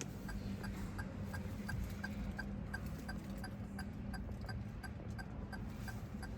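A car's turn-signal indicator ticking evenly, about two ticks a second, over a low steady hum.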